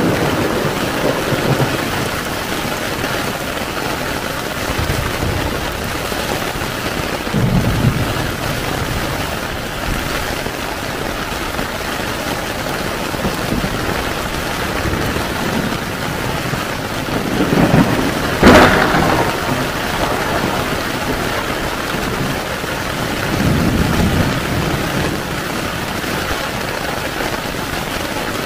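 Heavy rain falling steadily on a tent, with several low rolls of thunder and one sharp thunderclap about two-thirds of the way in.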